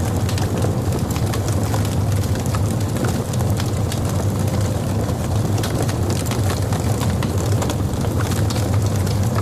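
Logs burning in a fireplace: a steady low rumble with frequent sharp crackles and pops scattered throughout.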